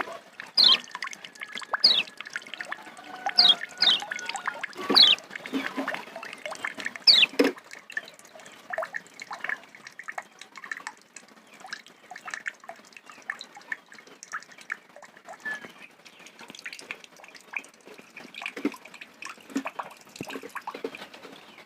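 A kecial (white-eye) singing: several quick, high, downward-sliding whistles in the first seven seconds or so, then a run of short twittering chips.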